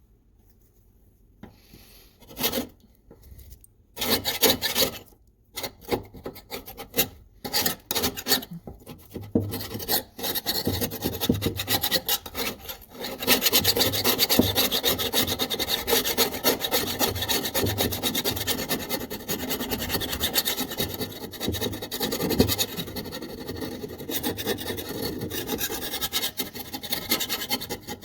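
Hand abrading a workpiece: rasping, rubbing strokes. After a quiet start they come as separate strokes, then turn into quick, continuous back-and-forth rubbing from about a third of the way in.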